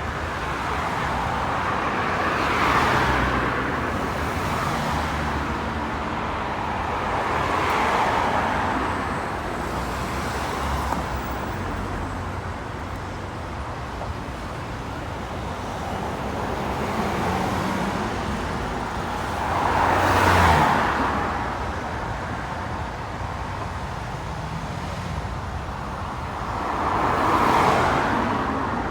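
Road traffic, with motor vehicles passing one after another: four louder pass-bys swell and fade, the first about three seconds in, the last near the end, over steady tyre and engine noise.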